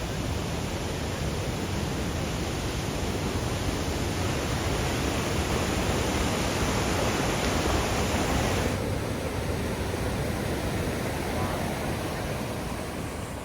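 Steady roar of a large waterfall, Iguazu Falls' water pouring down; the roar turns duller about nine seconds in.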